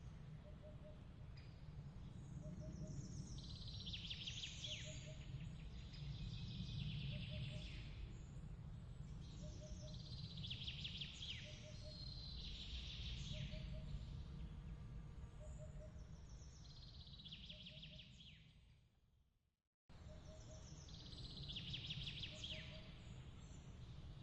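Ambience of birds chirping in short clusters every few seconds over a steady low rumble, with a faint regular double tick about every second and a half. The whole bed fades out and restarts abruptly near the end, as a loop begins again.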